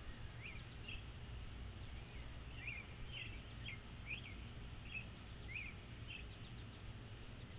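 Small bird chirping: scattered short chirps, about a dozen, over a low steady background rumble.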